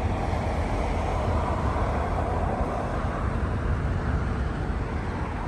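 Steady outdoor rumble and hiss of airport ambience, distant jet and vehicle noise, with no distinct events.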